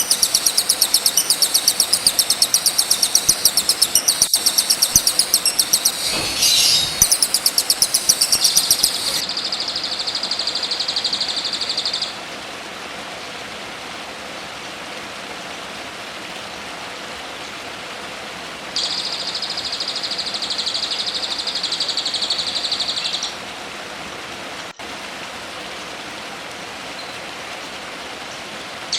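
Songbird masteran recording: a rapid, very high-pitched chattering trill, then a steady buzzing trill that stops about twelve seconds in and returns for about four seconds later on, over a steady background hiss.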